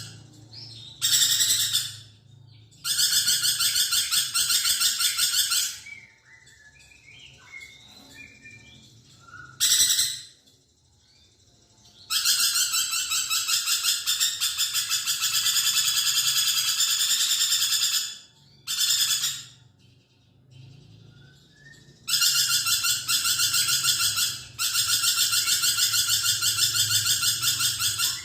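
Lorikeet (perkici) calling actively: repeated bursts of a rapid, high, buzzing trill, some lasting a few seconds and the longest about six, with short gaps holding soft chirps. A faint low hum runs underneath.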